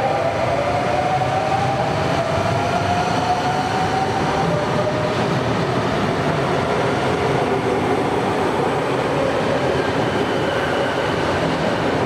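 Double-deck electric suburban train moving along the platform. Its traction motors give a whine that rises in pitch over the first four seconds or so as it gathers speed, over steady rolling noise of wheels on rails.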